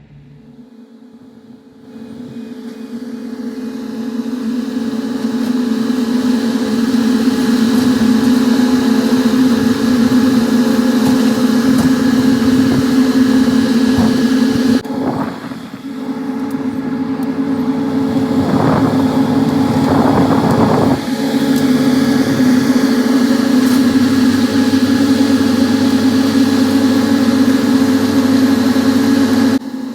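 A heavy construction machine's engine running steadily with a droning hum, getting louder over the first few seconds.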